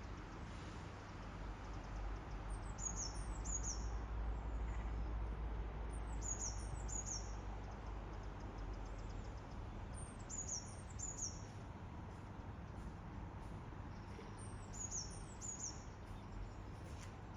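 A small bird calling: a group of two or three short, high, falling chirps repeated about every four seconds, over a steady low rumble that swells in the first half.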